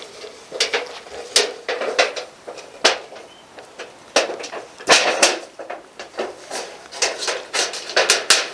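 A shovel digging into soil to bury a campfire's ashes, with short scraping strokes coming irregularly, about one to three a second.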